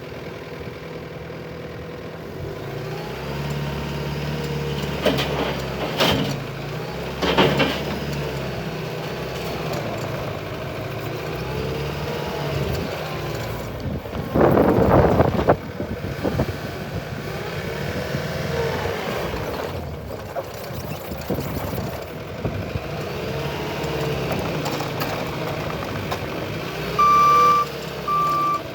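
Bobcat T770 compact track loader's diesel engine running, its pitch rising and falling as the machine works, with a loud rushing burst about halfway through. Near the end its reversing alarm starts beeping.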